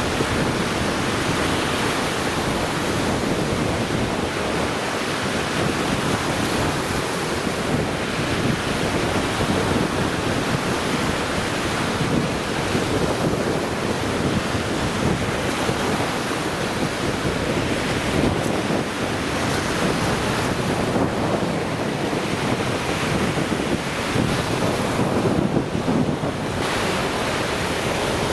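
Lake Michigan surf breaking steadily on the beach, with wind blowing across the microphone.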